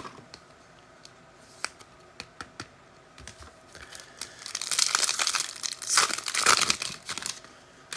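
Wrapper of a Panini NFL trading card pack being torn open and crinkled. A few light clicks and taps come first, then from about halfway in about three seconds of dense crinkling and tearing.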